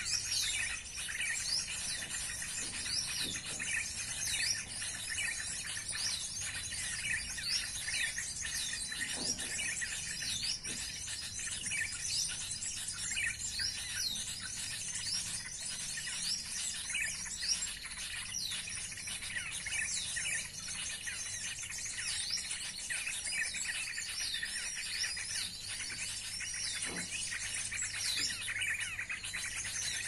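Small birds chirping and twittering, a bird-lure (pikat) call: many short, high chirps in quick succession over a steady high hiss.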